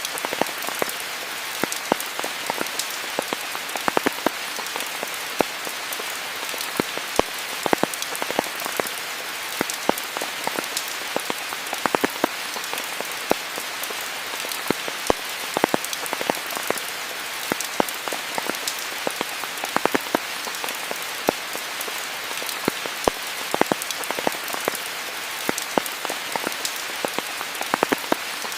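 Steady rain falling, an even hiss with many sharp, irregular taps of individual drops striking close by.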